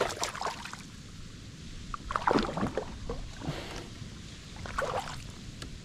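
Scattered knocks and handling sounds in a kayak while a freshly landed largemouth bass is handled, with a few louder knocks about two seconds in.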